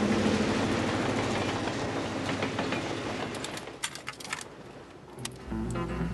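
Passenger train cars rumbling past close by. The rumble fades after about three seconds into a few sharp clicks. Low steady music tones come in near the end.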